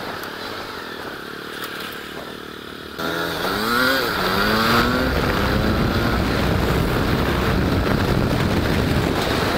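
Suzuki Gixxer's single-cylinder engine, quiet at first, then about three seconds in the throttle opens: the engine note climbs, drops at a gear change, climbs again, and settles into steady running.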